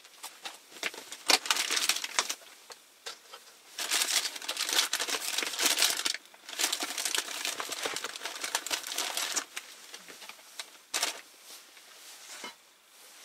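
Rustling and crinkling as things are handled, coming in stretches of one to three seconds with short pauses between them, and a brief burst near the end.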